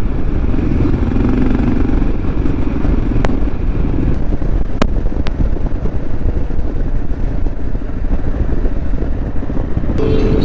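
Motorcycle riding at speed: engine running under heavy wind noise on the microphone, with a few sharp clicks.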